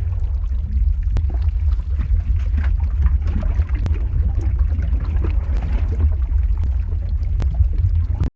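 Lava-flow ambience sound effect: a deep, steady rumble with scattered crackles and pops over it.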